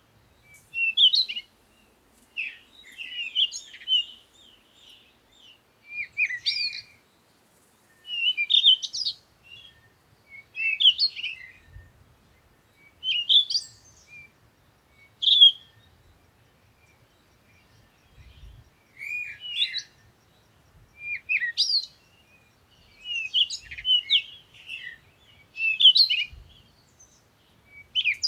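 A songbird singing short phrases of quick, slurred whistles, one phrase about every two seconds with short pauses between them.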